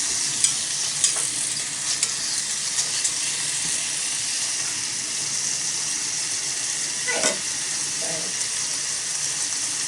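Kimchi sizzling in oil in a small cast-iron pot over a mini fire pit: a steady frying hiss, with a few sharp pops in the first few seconds.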